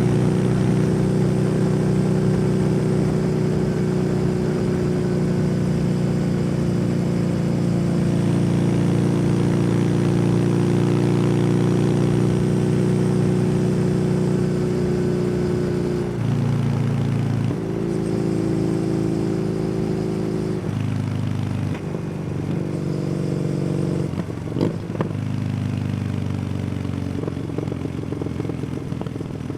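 Kawasaki W800 parallel-twin engine through an aftermarket SC Project exhaust, heard while riding. It holds a steady note at cruising speed for about half the time, then the pitch jumps down and up several times in quick steps as gears are changed and the throttle is opened and closed.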